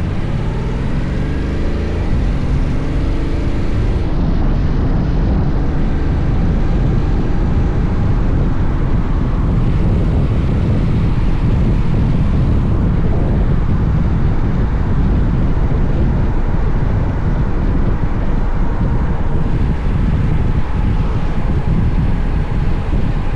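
Honda X-ADV's parallel-twin engine pulling away, its pitch rising over the first few seconds, then holding steady at cruising speed under heavy wind noise on the mount-mounted camera microphone.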